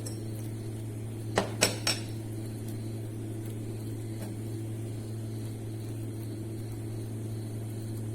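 Three quick clinks of kitchenware or utensils about one and a half seconds in, over a steady low hum.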